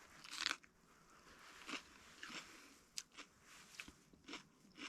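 A person biting and chewing a raw red pepper filled with tofu scramble: faint, irregular crunches close to the microphone.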